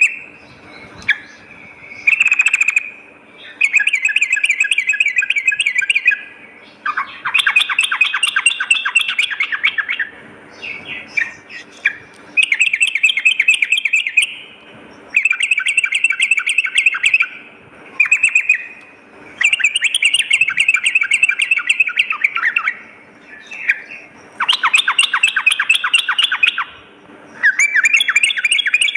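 Yellow-vented bulbul (trucukan) song: repeated bouts of fast, bubbling chattering notes, each two to three seconds long with short pauses between, as used to lure and train other bulbuls to sing.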